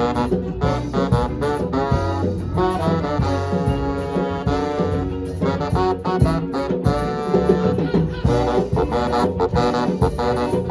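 Live swing band playing, with the horns holding long notes over the drums.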